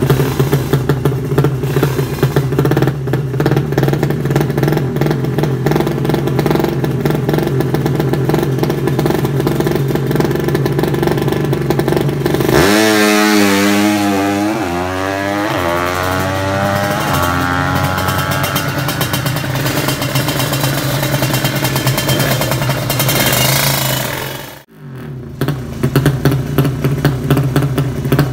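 Drag bike engine idling with a fast crackle. About halfway through it is revved, the pitch climbing over a couple of seconds, and it runs on higher before a sudden brief dip near the end, after which it idles again.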